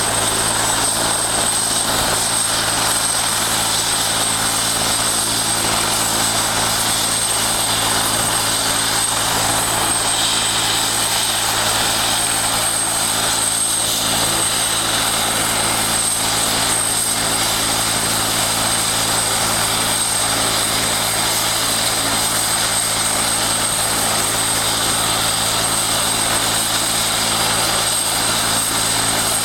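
Helicopter running steadily and loudly: continuous rotor and engine noise with a constant high whine.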